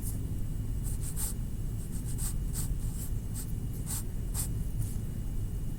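Short, quick scratching strokes of a pen or marker drawing on a paper card, about two strokes a second at an uneven pace, over a steady low room hum.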